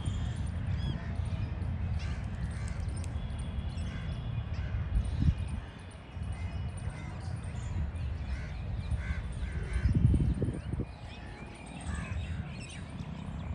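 Birds calling, many short calls one after another, over a steady low rumble that swells briefly about five and ten seconds in.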